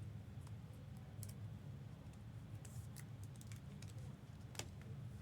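Faint scattered clicks and ticks of trading cards and packaging being handled, with one sharper click about four and a half seconds in, over a steady low hum.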